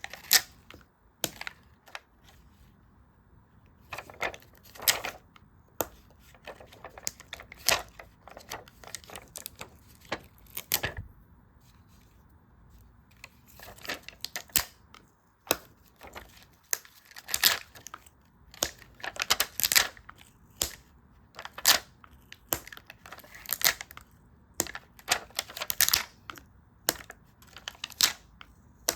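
Stickers and paper being handled: irregular crisp crackles, crinkles and small taps, with a short lull about twelve seconds in.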